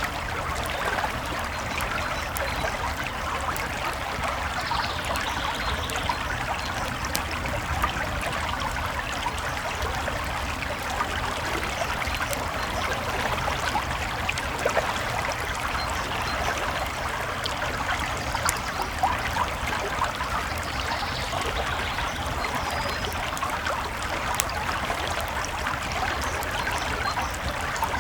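Campfire crackling, with scattered sharp pops, over the steady rush of a small creek.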